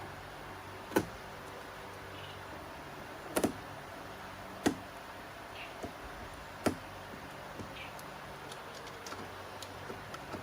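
A few sharp knocks and clicks of hard parts or tools being handled, the louder ones a second or two apart with a double knock among them, over a steady low hum.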